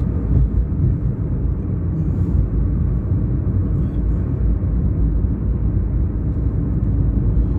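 Steady low rumble of a car on the move, heard from inside the cabin: engine and tyre road noise.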